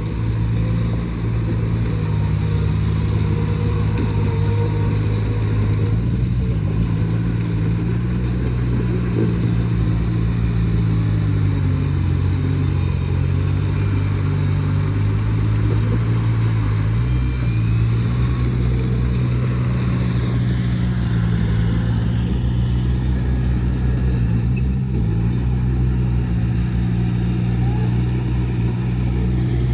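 Heavy construction machine's diesel engine running steadily under load, its pitch dipping and rising a few times as it works.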